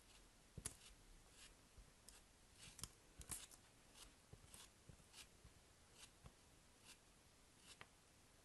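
Faint, scattered rustles and light taps of soap packaging being handled and opened by hand, one or two small sounds a second, with a slightly sharper click about three seconds in.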